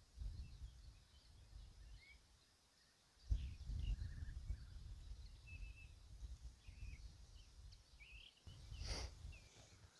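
Faint, scattered short bird calls and chirps, over a low rumbling noise that comes and goes and is loudest from about three seconds in.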